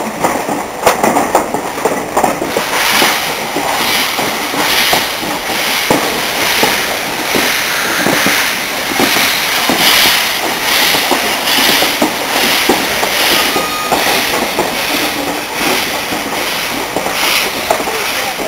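Steam locomotive working a train, its exhaust beating evenly at about one and a half chuffs a second, with the clickety-clack and knocks of wheels on the track.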